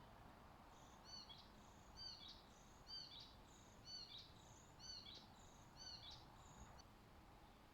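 A songbird singing faintly, repeating the same short high phrase about once a second, six times in a row, over a low steady background hiss.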